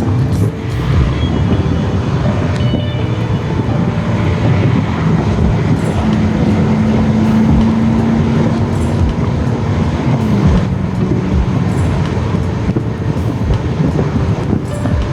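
Corvette V8 cruising, heard from the open cabin with the top down: a steady engine drone over wind and road noise, its pitch stepping down about ten seconds in.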